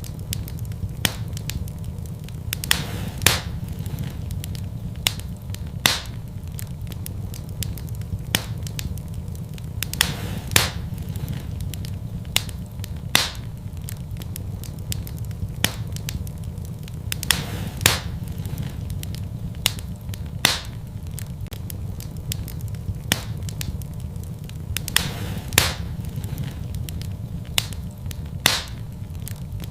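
Fire burning in a fireplace: a steady low rumble with sharp crackles and pops that come irregularly, every second or two.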